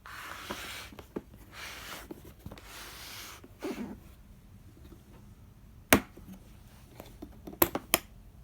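Box and packaging being handled: several short stretches of rustling and sliding, then sharp clicks or snaps, the loudest about six seconds in and a quick cluster of three near the end.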